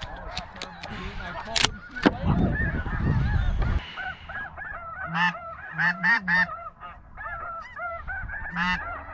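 A flock of geese honking, many overlapping calls, louder and busier in the second half. Two sharp cracks come about half a second apart, near the start.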